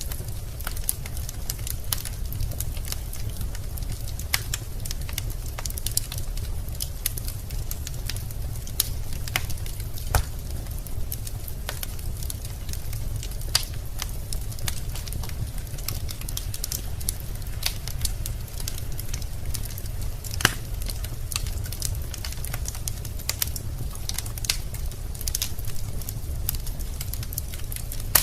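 Wood fire burning in a fireplace: a steady low rumble of flames with irregular crackles and an occasional louder pop from the burning logs.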